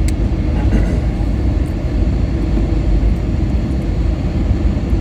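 Steady low cabin rumble of an Airbus A320-232 on approach, its IAE V2500 engines and the airflow heard from inside the passenger cabin.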